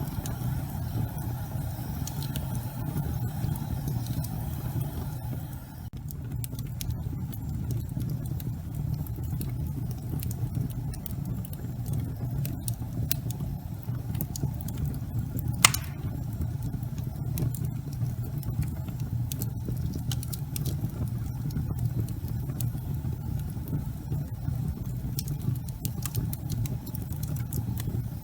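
Wood fire burning in a fireplace: a steady low rumble of flames with scattered crackles, and one loud pop about halfway through.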